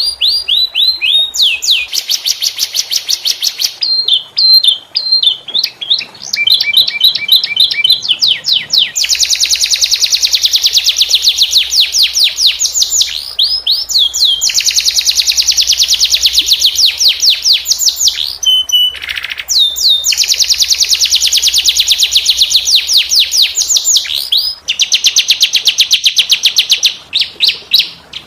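Domestic canary singing a long song made of rapid trills and rolls: fast runs of repeated sweeping notes, broken by a few short pauses.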